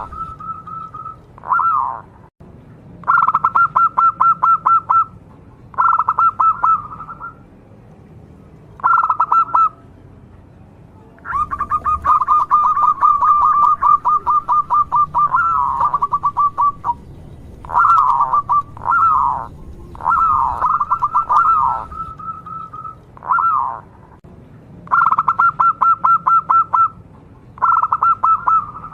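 Zebra dove cooing in its staccato song: repeated phrases of rapid, pulsing notes, each phrase lasting one to three seconds, with short gaps between them.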